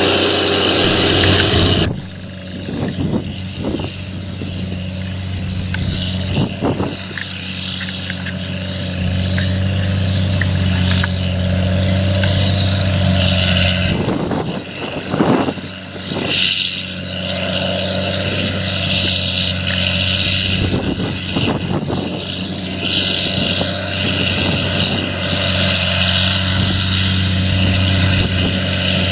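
An engine running steadily, a constant low hum with a shifting rush of noise over it that swells briefly about halfway through.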